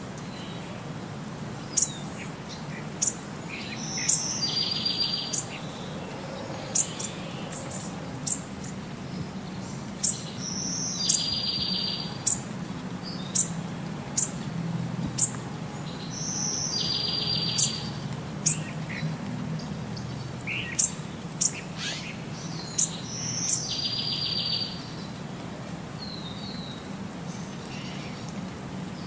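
Birdsong: many short, sharp, high chirps and a short trilled call that recurs about every six seconds in an identical pattern, as in a looped bird-sound background track, over a low steady hum.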